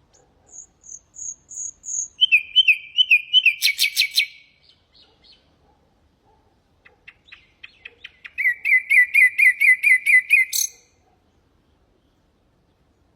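Common nightingale singing two phrases. The first opens with a row of high, pure whistles, then runs into repeated lower notes and a fast clicking rattle. After a pause of a couple of seconds the second begins with dry clicks, goes into a rapid run of repeated notes and stops sharply.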